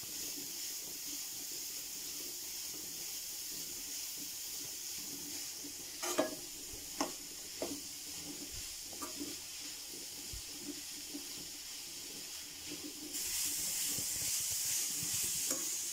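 Grated carrot sizzling in ghee in a kadai while a metal spatula stirs it: fried until its raw smell is gone. A few sharp clinks of the spatula on the pan come about six to nine seconds in, and the sizzle grows louder near the end.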